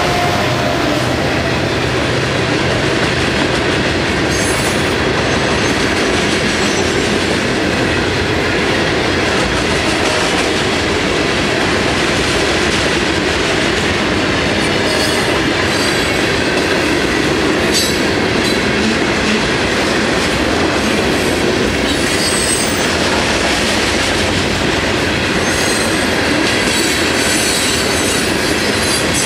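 Florida East Coast freight train passing close by: the trailing diesel locomotive's engine drones for the first second or two, then a long string of loaded open-top hopper cars rolls past with a steady rumble and clatter of steel wheels on the rails. Faint high wheel squeals come and go now and then.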